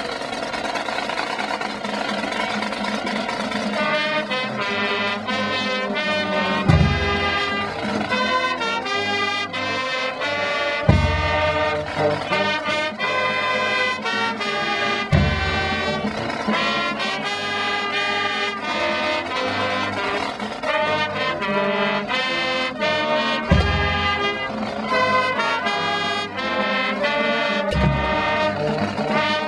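A high school marching band playing live: massed brass, trumpets and trombones, carrying a melody, with a low bass-drum hit roughly every four seconds.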